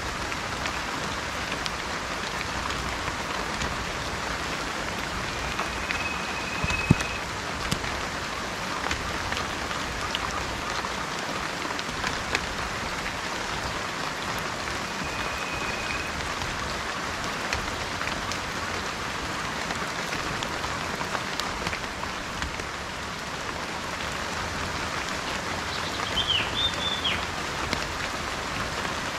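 Steady rain falling, an even hiss of drops, with a louder single tap about seven seconds in. A bird gives a short level whistled note twice and a quick burst of chirps near the end.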